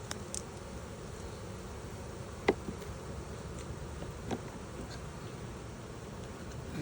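Honey bees buzzing around an opened hive, a steady hum. A sharp knock about two and a half seconds in and a softer one a couple of seconds later.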